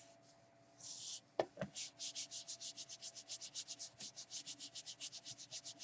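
Quick back-and-forth rubbing on paper, about seven light strokes a second, as glued layers of a paper tag are pressed down together. A single knock comes just before the rubbing.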